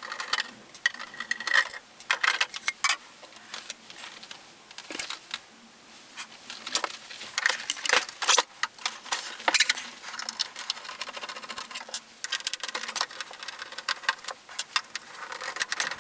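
Irregular clicks, knocks and metallic clinks of a 1980s Panasonic top-loading VHS recorder's case being opened up by hand.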